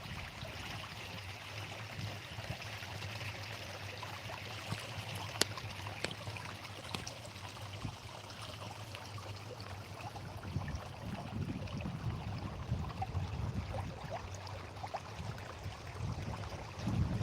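Steady rushing of flowing water, like a stream, with low rumbles coming and going in the second half.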